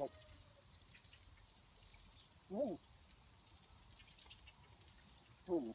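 Steady high-pitched insect chirring, with a few short, soft rising-and-falling calls at the start, about halfway through and near the end.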